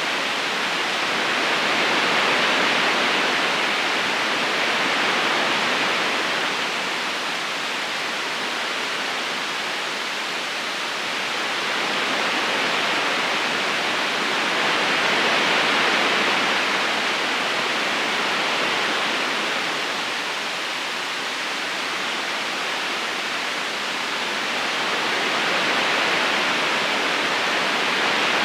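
River current flowing: a steady rushing of water that swells and eases slowly every few seconds.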